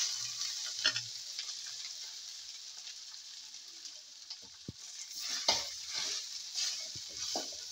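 Coarsely ground soya chunks sizzling in hot oil in a kadhai, with a spatula scraping and stirring through them. The sizzle is loudest just after they go in and eases off, with more scrapes of the spatula in the last few seconds.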